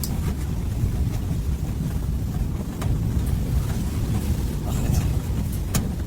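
Blizzard wind buffeting the microphone: a loud, unsteady low rumble, with a couple of faint clicks.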